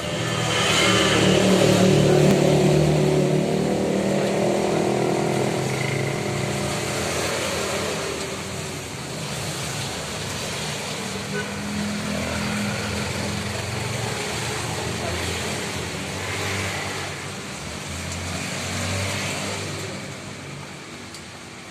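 Road traffic on a rain-wet street: a motor vehicle's engine passes close, loudest about two seconds in, then more vehicles come and go over a steady hiss.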